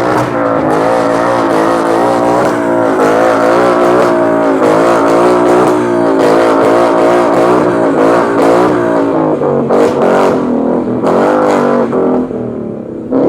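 Car engine revved hard and held at high revs, its pitch wavering up and down, typical of a car doing a burnout. It drops off briefly near the end, then comes back up.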